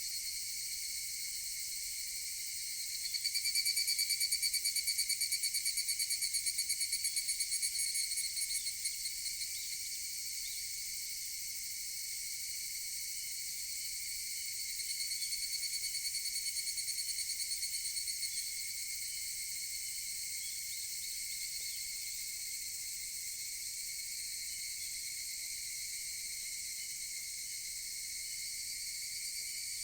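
Higurashi (evening cicadas) calling over a steady, high-pitched insect chorus. A nearby one starts its rapid repeated call about three seconds in and trails off after several seconds. A second, fainter one calls briefly around the middle.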